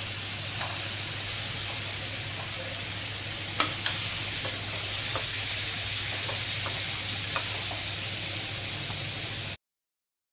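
Chopped onion sizzling in melted butter in a nonstick frying pan, stirred with a plastic spatula that clicks and scrapes against the pan now and then. The sound cuts off abruptly near the end.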